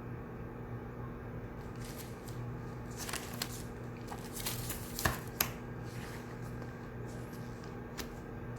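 Study-room ambience: a steady hum of ventilation under a few seconds of paper rustling and small handling clicks around the middle, with two sharp clicks close together and one more click near the end.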